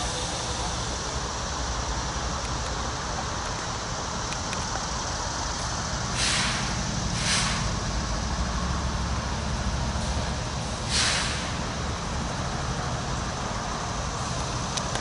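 A diesel train engine running steadily, with three short hisses of air released from the air brakes: two close together about six and seven seconds in, and one more near eleven seconds.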